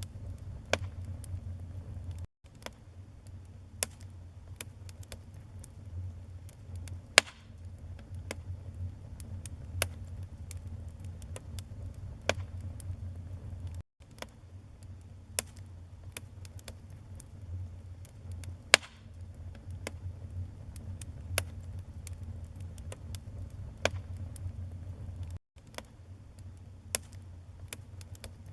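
Wood fire burning in a fireplace: a steady low rumble of flames with irregular sharp crackles and pops from the burning logs, two of them much louder. The sound cuts out for an instant three times.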